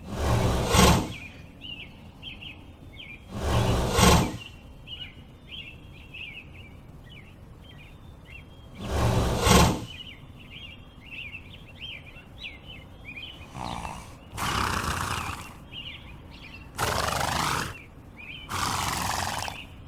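Small birds chirping steadily, broken by loud rushing blasts about a second long: three in the first ten seconds, then four more close together in the second half.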